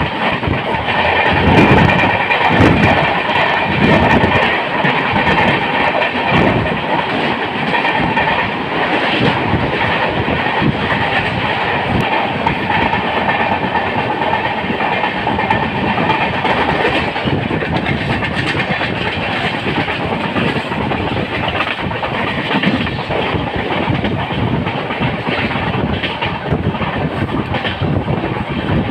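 Jan Shatabdi Express passenger train running on the track: a steady rumble of wheels on rails, with a few heavier knocks in the first few seconds.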